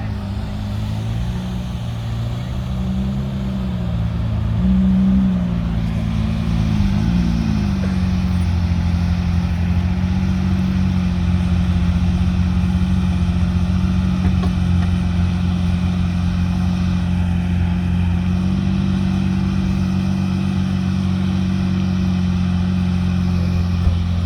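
A sports car's engine running close by. Its pitch rises and dips a few times in the first eight seconds, then it settles into a steady idle.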